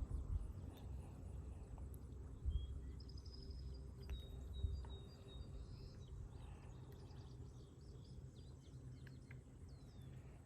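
Quiet outdoor ambience: a low rumble with a few faint bird chirps and trills in the middle.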